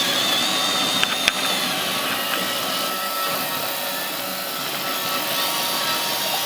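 Roomba robot vacuum running: a steady whirring of its motor and brushes with a high, wavering whine at first, and two sharp clicks about a second in.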